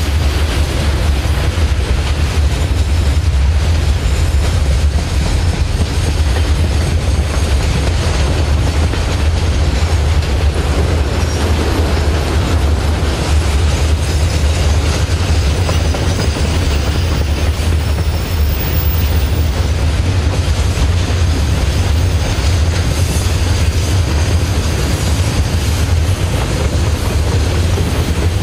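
Freight train container wagons rolling steadily past, their wheels giving a continuous low rumble on the rails.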